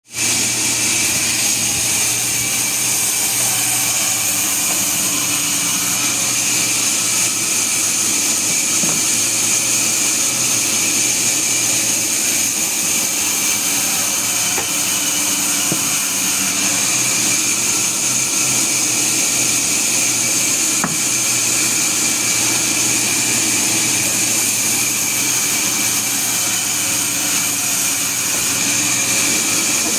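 Sawmill saw running steadily with an unbroken high-pitched whine and hiss.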